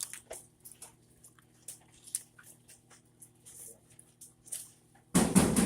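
Faint, scattered wet clicks and smacks of someone chewing food, then a sudden loud burst of noise about five seconds in.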